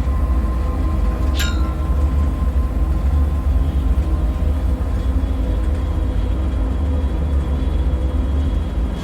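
Dark ambient drone for an abandoned-bunker soundscape: a deep, steady rumble with faint held tones above it. About a second and a half in, a brief high-pitched sound falls quickly in pitch.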